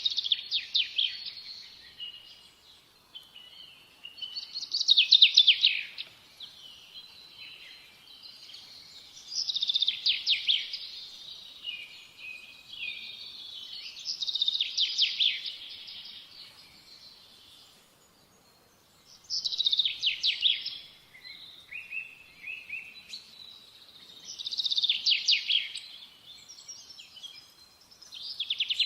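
A bird singing: short, high trilled phrases of a second or two, repeating about every five seconds.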